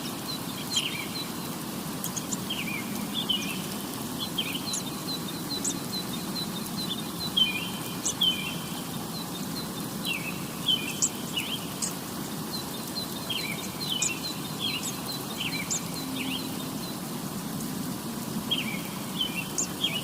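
Small birds chirping, short repeated calls several times a second, over a steady low background rumble.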